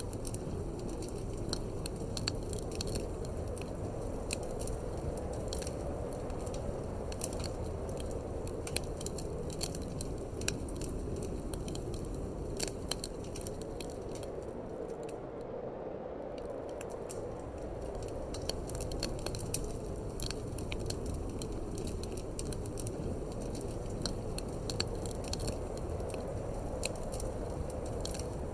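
Wood fire crackling in a fireplace, with sharp irregular pops over a steady low wind rumble. The pops drop away for a moment about halfway through.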